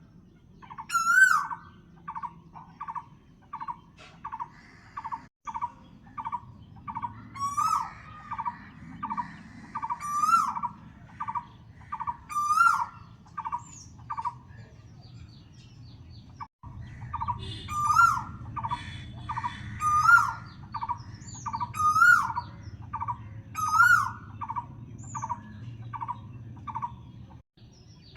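Bird calls repeating: a steady run of short notes, about three a second, with a louder warbling call every two seconds or so, over a low rumble. The sound drops out briefly twice.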